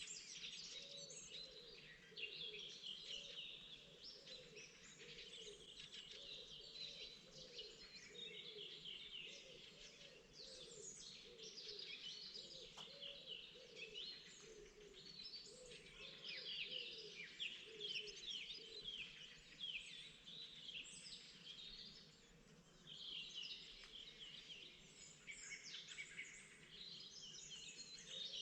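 A chorus of many songbirds singing at once in spring, with short chirps and quick falling notes overlapping without pause. A softer, lower repeated calling sounds underneath.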